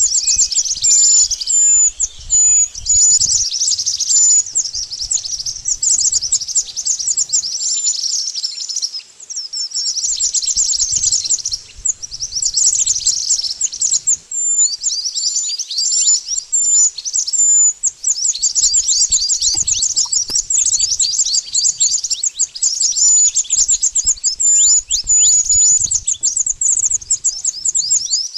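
Mantenan bird calls: a dense, rapid stream of high-pitched chirps, many sliding down in pitch, broken by a repeated short, higher whistled note and a couple of brief pauses.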